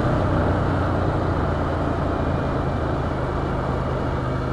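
Ducati Scrambler Urban Enduro's L-twin engine running steadily while the motorcycle rides at low speed.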